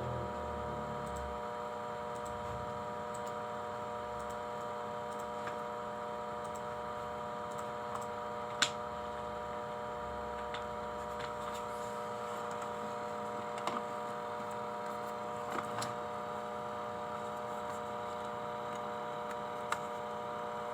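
Steady electrical hum made of several fixed pitches, with a few faint clicks and one sharper click about eight and a half seconds in.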